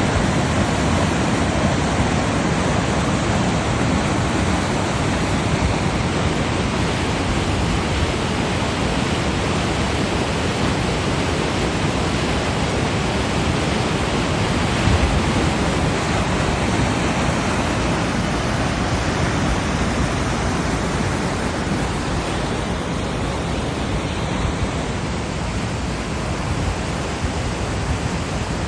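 Steady rush of water pouring down an artificial waterfall.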